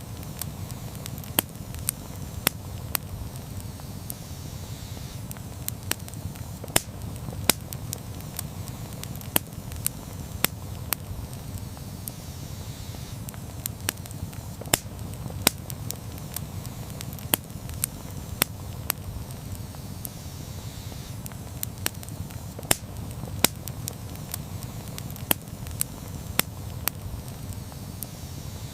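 Wood campfire burning, with irregular sharp crackles and pops over a steady low rush of flames.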